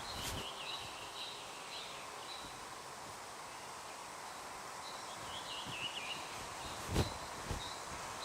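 Quiet forest background with faint, high, wavering bird calls in two short runs, early on and again about five and a half seconds in, and a single soft knock about seven seconds in.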